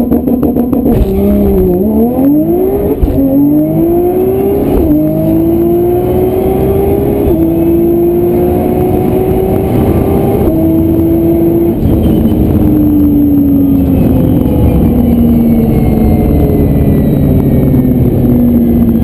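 Nissan GT-R R35's twin-turbo V6, upgraded with a Boost Logic 1300 turbo kit, held at steady launch revs, then pulling hard through the gears on a quarter-mile drag run. The pitch climbs in each gear and drops at quick shifts about every two to three seconds, then falls away steadily over the last several seconds as the car slows after the run.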